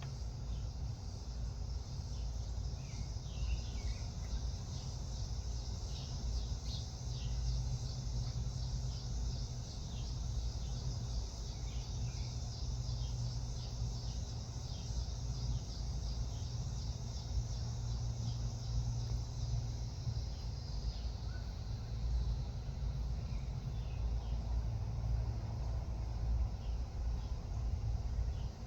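Outdoor ambience of small birds giving short, falling chirps over a dense, high insect chirring, with a steady low rumble underneath. The insect chirring thins out about two-thirds of the way through.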